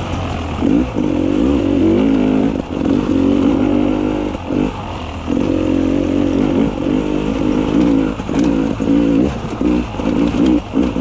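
Beta 300 RR two-stroke enduro motorcycle engine revving up and down on singletrack, the throttle repeatedly opened and chopped, with several short drops in the engine note.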